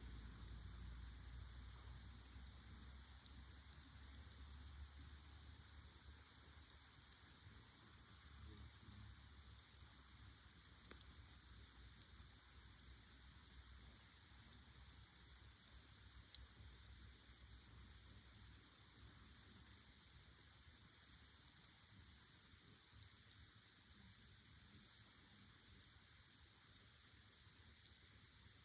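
Steady, high-pitched chorus of crickets trilling continuously on a warm summer night.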